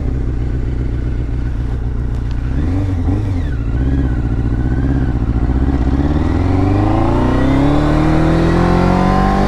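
Yamaha FZR600's inline-four engine running as the motorcycle is ridden, with a brief dip and change in engine note about three seconds in. Through the second half the engine revs rise steadily as the bike accelerates.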